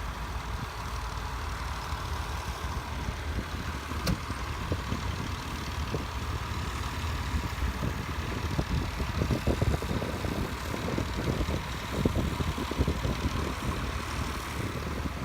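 Tractor engine running steadily at low revs, with irregular low thumps through the second half and one sharp click about four seconds in.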